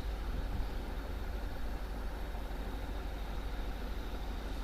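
Steady low rumble of a vehicle engine running, with no change in pitch.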